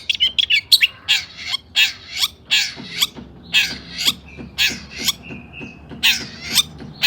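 Long-tailed shrike (cendet) giving a string of harsh, scratchy calls, about two a second, with a couple of short thin whistles in the middle and a brief pause before the calls resume.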